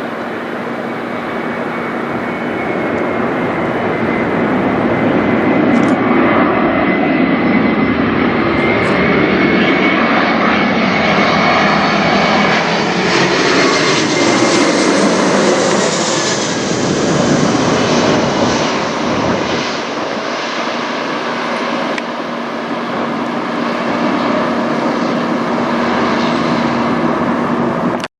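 Airbus A321-211 airliner's twin CFM56 jet engines flying overhead: a loud jet roar that builds over the first several seconds, with a whine that falls in pitch as the plane passes about halfway through, then goes on as it moves away.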